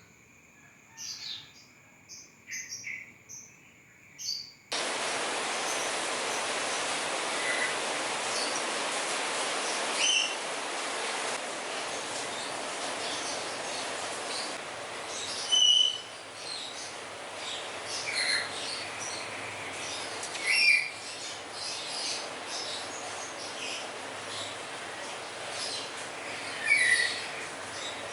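Small birds chirping and calling at intervals. About five seconds in, a steady rushing hiss cuts in abruptly under the chirps.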